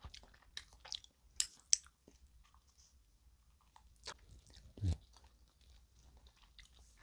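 A person chewing a fried croquette coated in spicy bibim-noodle sauce, heard close up as scattered short wet clicks and crunches, with one louder short sound about five seconds in.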